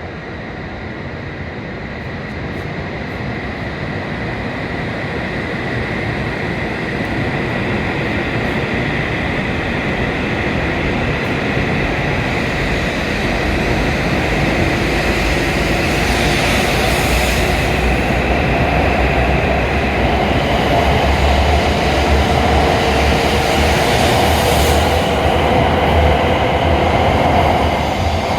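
E7-series Shinkansen train pulling out of the station, its traction motor whine rising slowly in pitch as it gathers speed, over a growing rumble of wheels and running gear.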